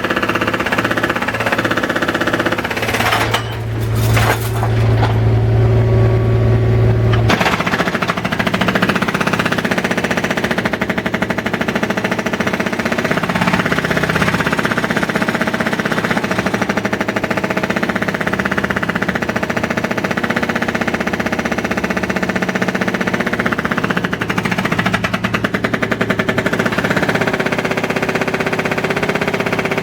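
Construction-site machinery hammering rapidly and continuously, a loud, fast, rattling stream of impacts like a breaker or jackhammer. A deep steady machine hum joins it for a few seconds and cuts off suddenly about seven seconds in.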